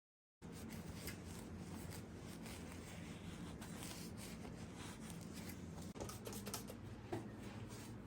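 Faint irregular small clicks and rustling over a low steady hum, beginning suddenly about half a second in after a moment of silence.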